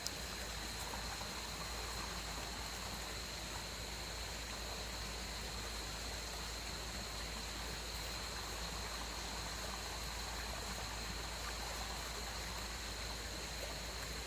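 Steady rushing noise of flowing water, with a thin, steady high tone above it.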